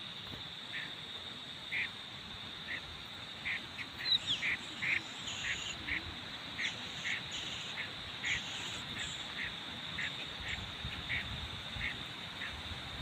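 Short, harsh bird calls repeated about once a second over a steady high-pitched insect drone, with a brief falling whistle about four seconds in.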